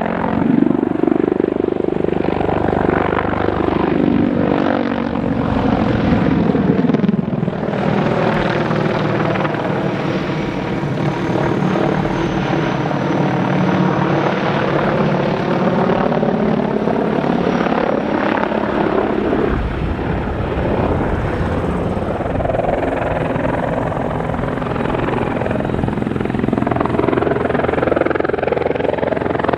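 Helicopter flying display manoeuvres: continuous rotor and turbine noise whose pitch bands sweep down and back up as the machine moves past.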